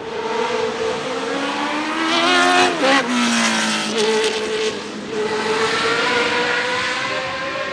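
Historic Formula 1 race car passing at speed, its engine pitch climbing as it approaches and dropping sharply as it goes by about three seconds in. The engine note carries on after the pass.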